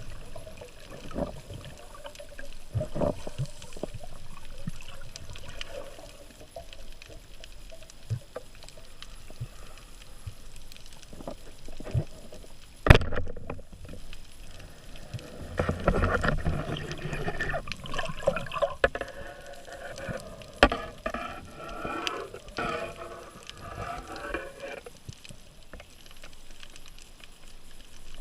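Underwater sound from a spearfisher's dive camera: water noise with scattered small clicks and knocks. One sharp, loud knock comes about halfway through, followed by several seconds of busier water sound.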